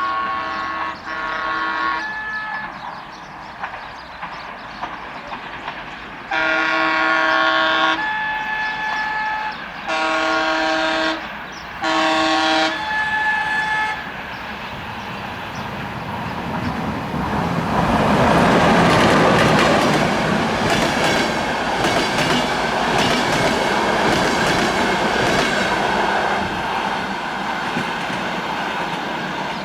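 Romanian electric locomotive EA-322 sounding its horn: two short blasts, then three longer blasts a few seconds later. The passenger train then rushes past, its wheels clattering rhythmically over the rail joints of jointed track.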